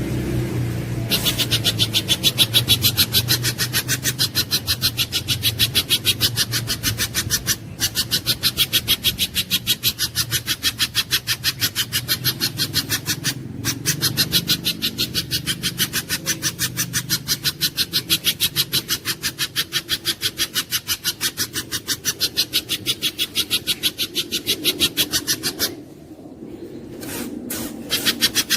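Spiderhunter (pijantung gunung) call: a long run of harsh, rasping notes repeated about five times a second, breaking off briefly twice and dropping away for a moment near the end.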